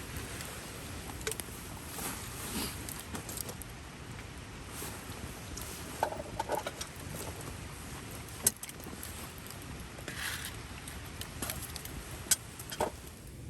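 Scattered small clinks, rattles and knocks of objects being handled, with two sharper knocks about eight and twelve seconds in, over a steady low background.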